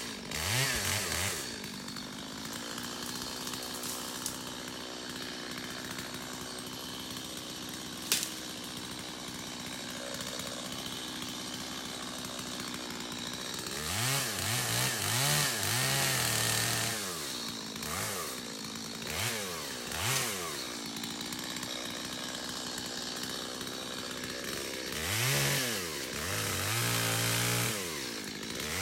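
Stihl MS 250 two-stroke chainsaw idling steadily, then revved up and down several times in short bursts in the second half. A single sharp click about eight seconds in.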